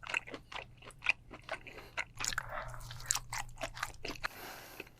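Close-miked eating: a person biting and chewing food with many crisp, crunchy clicks, mukbang style, with a brief hissing stretch near the end.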